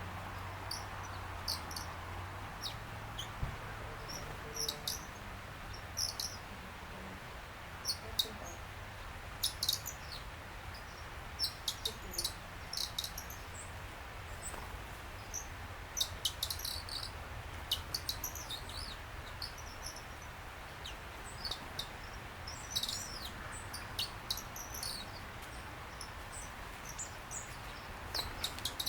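Small songbirds chirping: many short, high chirps come and go in scattered bunches over a steady low background hum.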